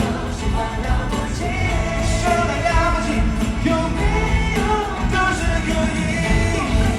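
Live pop-rock concert music: a band with sung melody lines, played loud over a stadium sound system.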